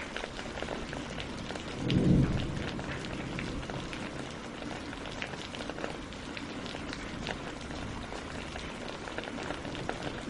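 Steady rain falling on a lake and on tree leaves, with many small drop ticks. A brief low rumble about two seconds in is the loudest sound.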